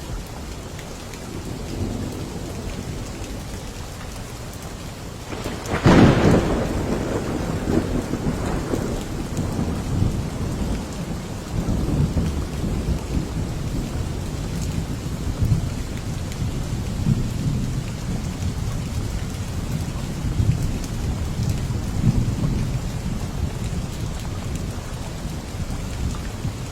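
Steady heavy rain with a thunderclap: a sharp crack about six seconds in, then thunder rumbling on and off through the rest.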